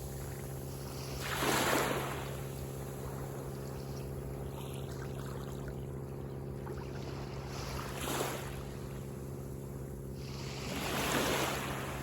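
Small sea waves breaking and washing up the beach, three separate washes: about a second and a half in, about eight seconds in and near the end, over a steady low hum.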